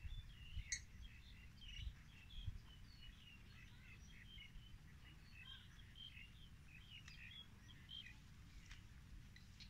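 Faint, busy chirping and twittering of small birds, many short calls overlapping. A few low bumps come in the first couple of seconds.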